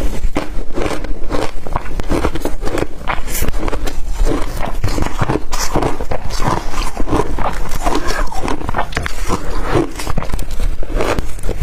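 Blender-crushed ice being bitten and crunched close to the microphone: a loud, rapid, irregular run of crisp crunches.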